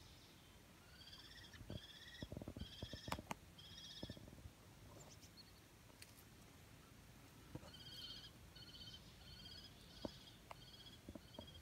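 A bird calling in two runs of short, repeated high notes, one near the start and another in the second half, with a few soft low knocks in the first run.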